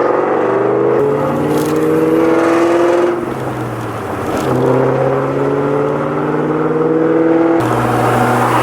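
Twin-turbo 2003 Mustang SVT Cobra's 4.6-litre V8 accelerating hard, heard from inside the car. Its pitch climbs steadily, drops at a gear change about three seconds in, then climbs again before another shift near the end.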